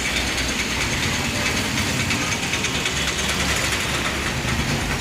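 Steady road traffic noise: vehicle engines running with a low rumble and a continuous hiss of passing traffic.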